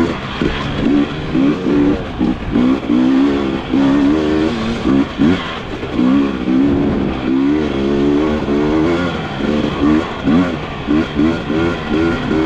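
Dirt bike engine revving up and down again and again as the throttle is worked over rough trail: short quick blips alternate with longer rises and falls in pitch.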